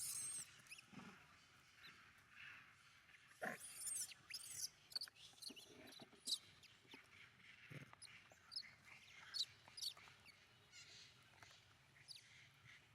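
Faint, scattered short high-pitched animal chirps and squeaks, some gliding in pitch, with a few soft clicks in between.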